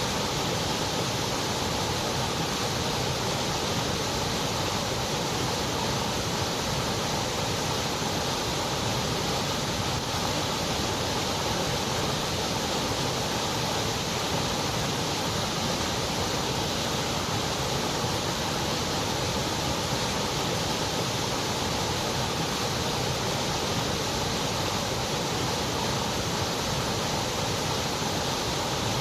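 Continuous white noise: an even, unchanging hiss with no breaks or changes.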